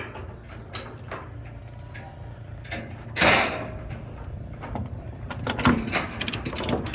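Car-show background noise: a steady low rumble with scattered clicks and knocks, and a short loud burst of noise about three seconds in.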